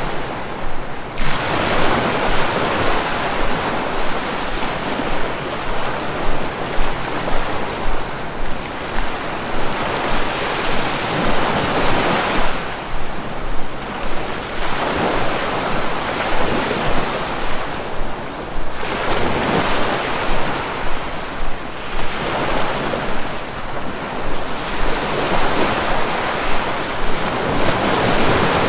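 Sea waves breaking and washing onto the shore, the surf swelling and falling back every few seconds.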